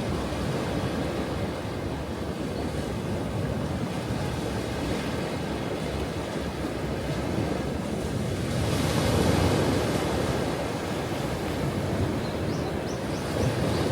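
Ocean waves washing onto the shore in a steady rush. One wave surges and breaks louder a little past the middle.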